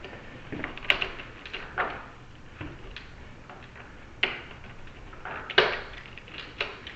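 A handful of separate sharp metallic clicks and knocks from door-lock hardware being handled, as a key is turned in a door knob's lock cylinder to line it up with the tailpiece.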